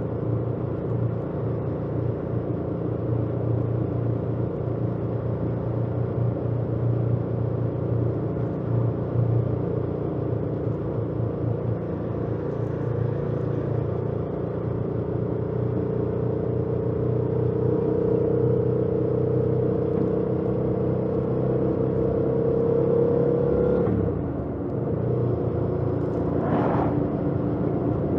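2018 Yamaha MT-07's parallel-twin engine with its stock exhaust running under way, with road noise. The engine note climbs slowly for several seconds, then drops suddenly about 24 seconds in and settles at a steady, lower pitch.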